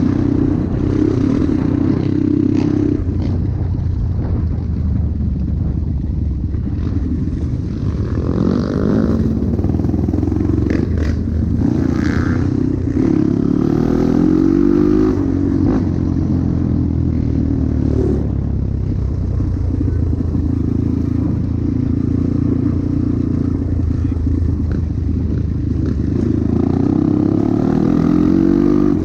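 Trail motorcycle engine running under way, its pitch climbing and dropping several times with throttle and gear changes.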